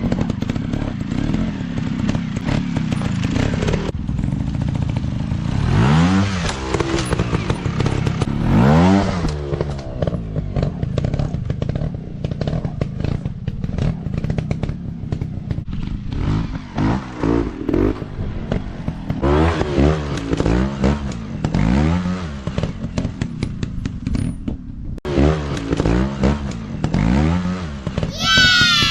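Dirt bike engine revving in repeated short blips that rise and fall in pitch over a steady running drone, with scattered clatter. Near the end comes one sharp, high-pitched rev.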